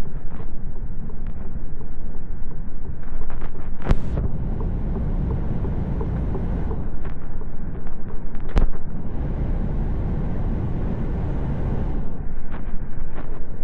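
Steady rumble of a truck on the move, heard from the cab, with small rattles and clicks. Two sharp knocks land about four and eight and a half seconds in, and each is followed by a few seconds of hiss.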